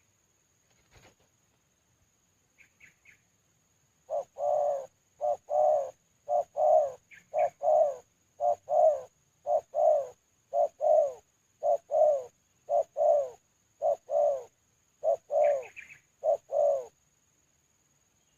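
Spotted dove (terkukur) cooing: about a dozen loud two-note coos, about one a second, starting a few seconds in. A few high chirps from a smaller bird come before and near the end, over a faint steady high tone.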